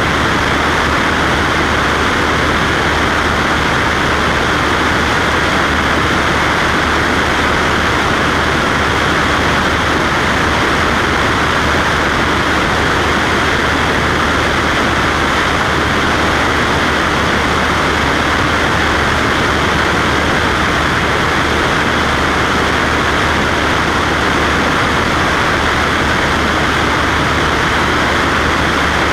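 Cessna Skywagon's piston engine and propeller droning steadily in flight, with no change in pitch or level.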